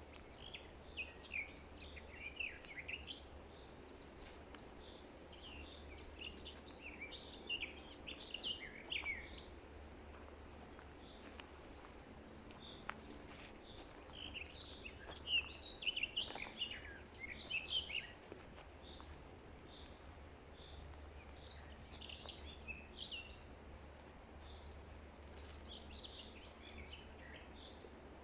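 Songbirds chirping and singing in short bouts of quick high notes, over a faint steady background hum.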